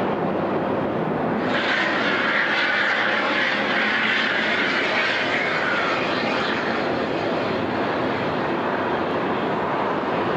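Boeing 737-800's CFM56 jet engines at takeoff power: a steady rush of jet noise, with a brighter hiss strongest from about two to six seconds in.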